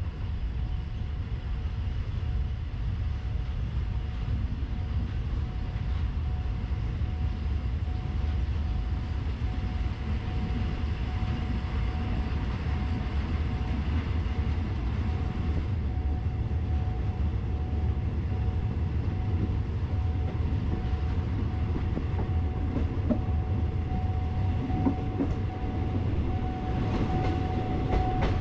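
Passenger train running along the track, heard from inside a carriage: a steady rumble of the wheels on the rails with a thin, even whine that grows stronger near the end.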